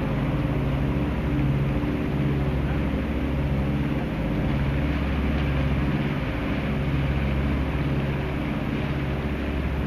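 Sailboat's inboard diesel engine running steadily under way, a low hum that swells and eases slowly, with wind and water rushing over it.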